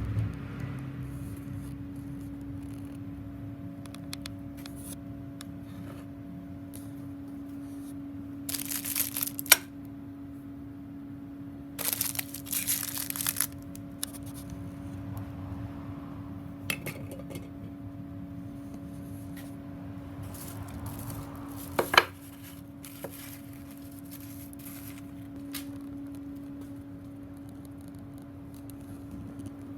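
Handling of small parts during hand assembly: two short scraping, rustling bursts and, later, a single sharp clink, over a steady hum.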